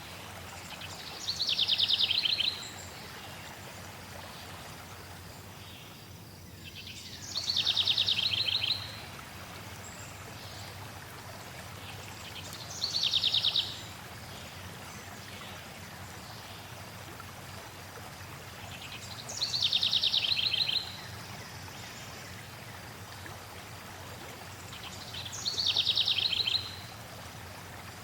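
A songbird singing a short, rapid trill five times, about every six seconds, over the steady rush of flowing water.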